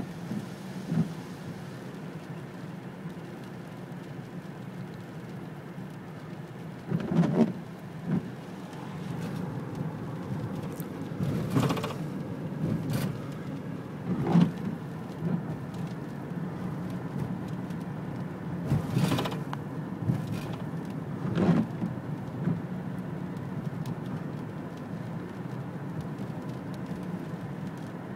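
Steady rain, with a short, sharp louder tap every few seconds.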